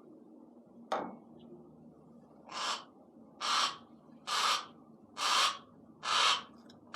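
Harris's hawk giving a run of harsh, rasping screams about once a second, starting about two and a half seconds in: a hawk calling to be taken out to hunt. A single sharp click comes about a second in.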